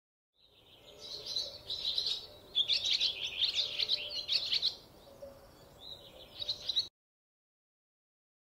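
Small birds chirping and twittering in several quick bunches, high-pitched, then the sound cuts off suddenly near the end.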